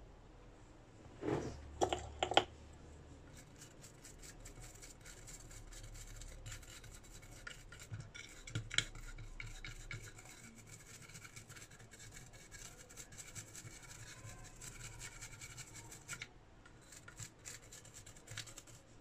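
Scratching and rubbing on a hard surface, with a few sharp knocks about a second in and a long run of small scratchy clicks after.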